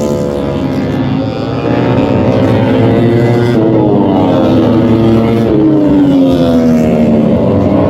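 MotoGP race motorcycles passing at speed, one after another, the engine pitch falling as each goes by.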